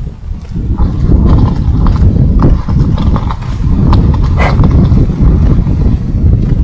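Wood campfire crackling, with irregular sharp pops and snaps over a heavy, constant low rumble.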